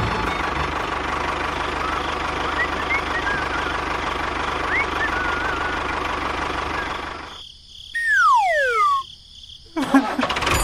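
Diesel tractor engine running steadily, with a few faint chirps over it, until it cuts out about seven seconds in. Then a whistle tone falls in pitch for about a second, followed by a few short knocks near the end.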